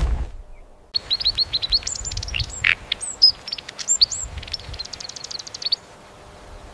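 A songbird singing a fast, varied song of high chirps and trills for about five seconds, stopping abruptly; a brief whoosh comes just before it.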